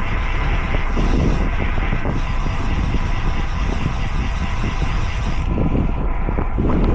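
Steady wind rush and road noise picked up by a camera riding along on a moving bicycle; the hiss dulls about five and a half seconds in.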